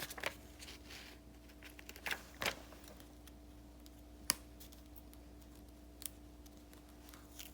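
Sparse light taps and clicks of stationery being handled on a desk during sticker journal decorating, about six in all, over a faint steady hum.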